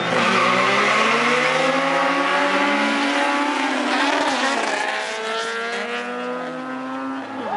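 Naturally aspirated Proton Satria car engine running hard. Its pitch falls over the first few seconds, then engine tones glide up and down through the middle.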